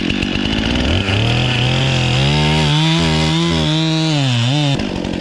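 Chainsaw running and cutting wood, its engine pitch wavering up and down as it works under load, then dropping off sharply near the end.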